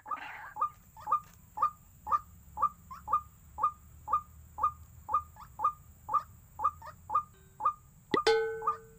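White-breasted waterhen calling, a short harsh note repeated over and over at about two a second. About eight seconds in, a sharp click, followed by a brief steady tone.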